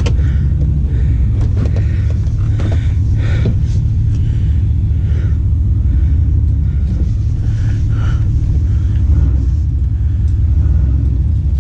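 A truck's steady low rumble, with scattered knocks and clanks over it.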